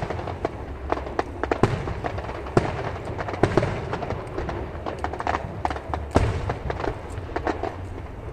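Aerial fireworks shells bursting in an irregular string of sharp bangs, the loudest about one and a half, two and a half, three and a half and six seconds in, over a steady low rumble.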